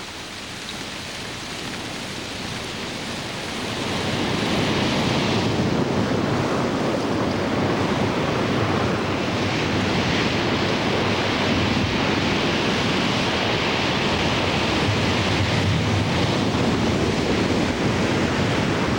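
Wind and surf: a steady rush of noise without tones or separate strokes, which grows louder about four seconds in.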